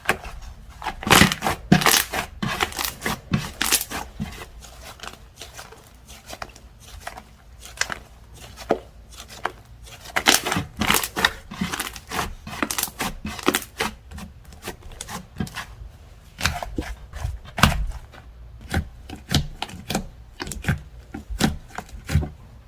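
Slime being squeezed, stretched and pressed by hand: a run of sticky clicks, pops and squelches in irregular clusters.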